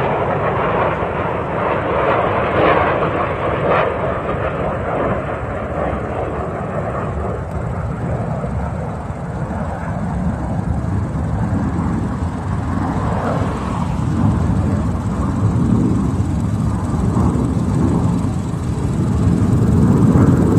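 Military jets flying overhead, a B-2 Spirit stealth bomber with its fighter escort: continuous jet noise that slides lower in pitch and grows louder near the end.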